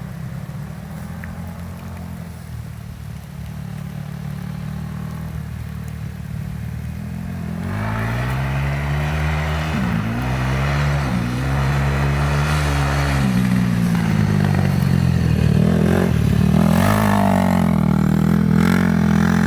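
450cc single-cylinder four-stroke off-road engine running at a steady low pitch. About eight seconds in it gets louder and revs up and down, its pitch rising and falling with throttle and gear changes.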